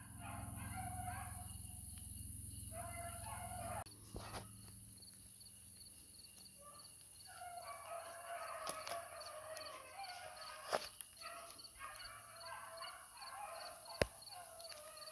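A pack of beagles giving tongue together, many overlapping bays and chops heard at a distance as the hounds run a rabbit track. A low steady hum underlies the first four seconds and cuts off suddenly, and a sharp click stands out near the end.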